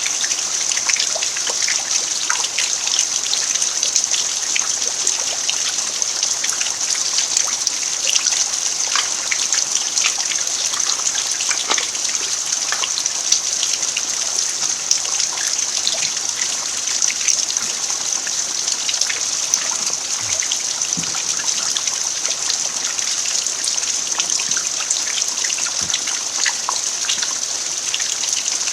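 Steady rain falling on an earthen yard: an even hiss dotted with many small drop ticks.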